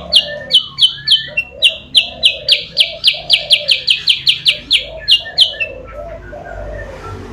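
Kutilang sutra giving a fast, insistent run of short, high, downward-slurred call notes, about four a second, as used to lure rival birds. The calls stop about five and a half seconds in, leaving softer, lower warbling notes underneath.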